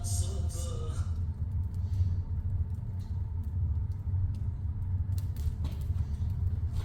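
Wood fire burning in a freshly lit fireplace firebox, with a steady low rumble of the draft and a few faint crackles.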